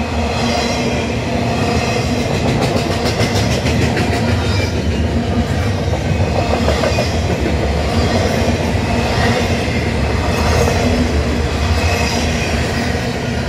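CN freight train of double-stacked container cars passing close by at speed: a steady loud rumble and clatter of wheels on rail, with a quick run of clicking about three seconds in.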